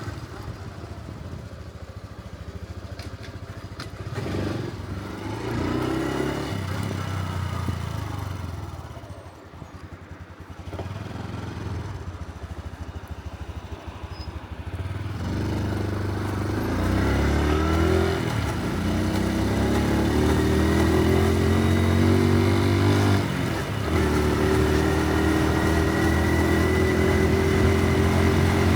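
Honda Super Cub C125's single-cylinder four-stroke engine on the move. It eases off and runs quieter about a third of the way in, then accelerates from about halfway, its pitch climbing, with a brief drop at a gear change before pulling steadily again.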